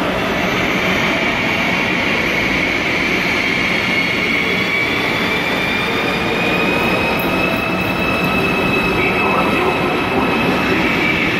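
ICE 4 high-speed train pulling out of the platform: its electric traction drive whines in a slowly rising pitch as it gathers speed, over a steady low hum and wheel rumble.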